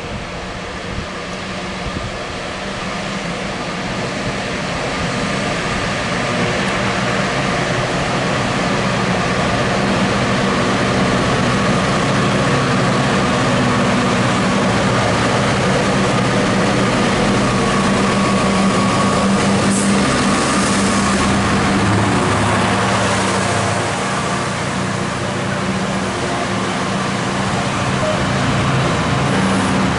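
Freightliner class 66 diesel locomotive hauling a container freight train, its two-stroke V12 engine running steadily and growing louder over the first ten seconds as it approaches and passes. Near the end the container wagons roll past close by.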